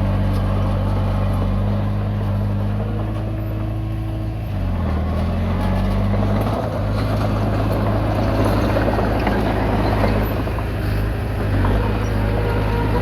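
Komatsu D20P bulldozer's diesel engine running steadily, its pitch dipping about four seconds in and picking back up, with more rattling noise in the second half as it works.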